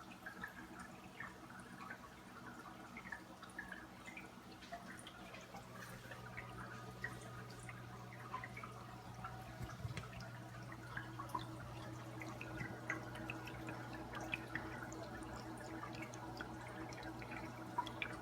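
Small paludarium waterfall trickling and dripping into the water, heard as a steady scatter of little plinks and splashes, over a low steady hum.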